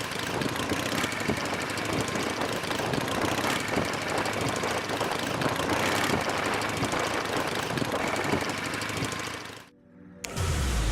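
Motorcycle engine running steadily as the bike is ridden, under a dense rushing noise, cutting off abruptly near the end.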